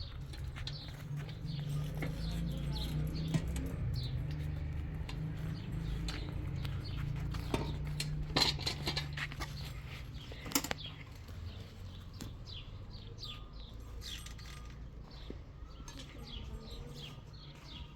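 Small birds chirping, many short falling chirps repeating throughout, over a low rumble, with a few sharp knocks in the middle.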